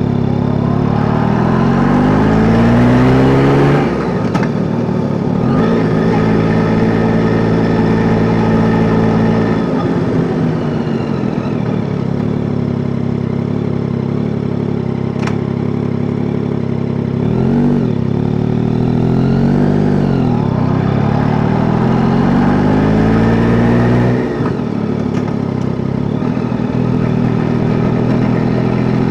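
Yamaha Tracer 9 GT's three-cylinder engine running under way. It climbs in pitch as the bike accelerates, drops when the throttle closes or it shifts, then holds steady at a cruise. It rises and falls again several times, with a sharp drop about 24 seconds in.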